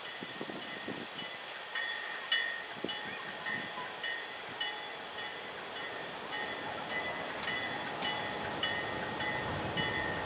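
Railroad grade-crossing warning bell ringing steadily, about two strikes a second.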